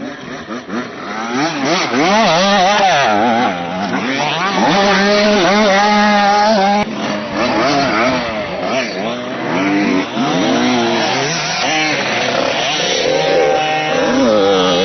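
Motocross bikes on the track, their engines revving up and down, with several engines overlapping and the pitch rising and falling over and over.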